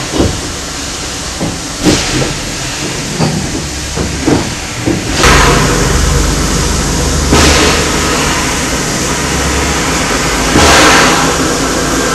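Small railway locomotive at work: a series of clanks and knocks, then from about five seconds in a steady running noise with a low hum and several surges of hissing.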